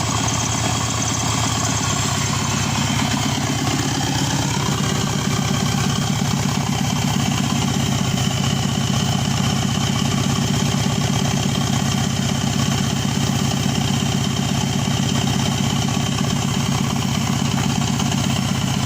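Subaru EJ255 2.5-litre turbocharged flat-four engine idling steadily while running out of the car.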